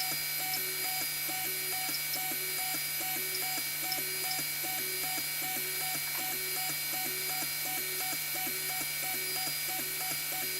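Creality CR-10 3D printer printing, its stepper motors whining in short pitched tones that step up and down and repeat evenly about twice a second, over a steady low hum.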